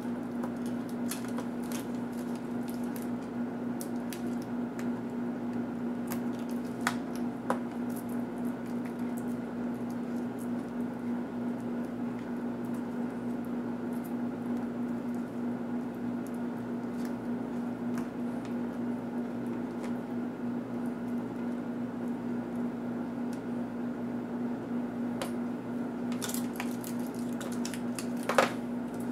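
Small clicks and scrapes of ASUS A6000 laptop parts being handled and pried apart by hand, scattered over a steady low hum, with a busier run of clicks and one sharp click near the end.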